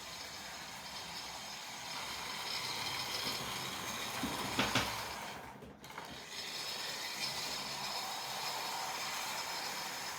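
Model electric train running in reverse, pushing three coaches: a steady motor whine with the wheels rattling along the track. There is a brief louder clatter about halfway through, then the sound drops away for a moment and resumes.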